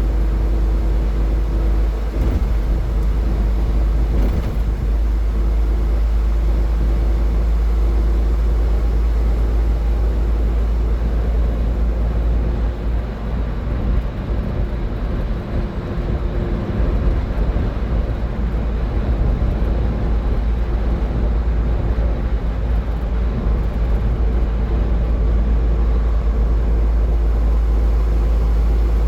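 Car driving at highway speed: a steady deep rumble of road and tyre noise with an engine hum, dipping slightly about halfway through.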